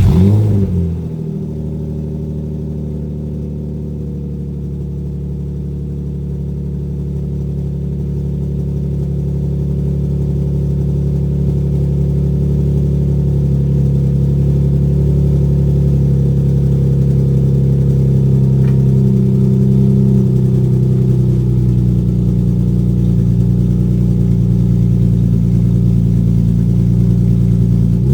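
Nissan 350Z's 3.5-litre V6 flaring up right after starting, then idling steadily and growing slightly louder. A blip of the throttle comes at the very end.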